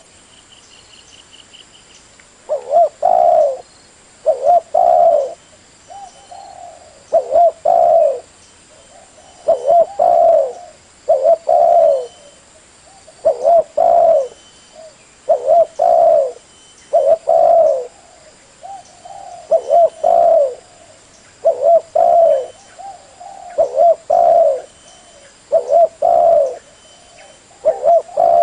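Spotted dove cooing over and over in short phrases of low coos, about one phrase every second or two.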